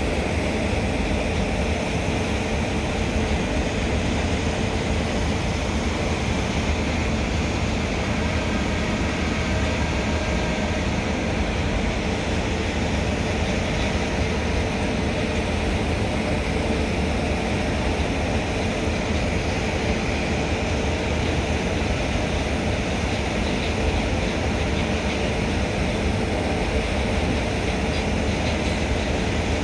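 A goods train of open freight wagons rolling past at a steady speed: a continuous, even rumble of steel wheels on the rails.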